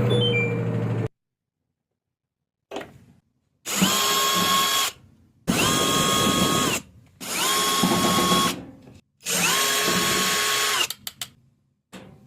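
Power drill-driver run in five short bursts, each spinning up to a steady whine and winding down, with silent gaps between.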